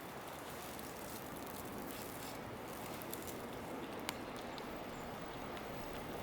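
Steady outdoor street ambience on a snowy morning: an even hiss of the city with a few faint ticks and one sharper tick about four seconds in.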